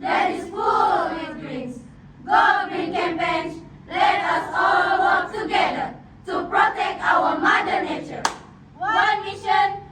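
A choral speaking group chanting or singing together in unison, many voices at once in rising and falling phrases, with a sharp click about eight seconds in.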